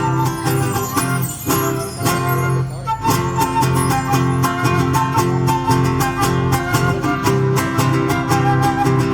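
Chilean folk music with strummed guitars over a steady beat. The texture thins out about a second in and the full band comes back around three seconds in.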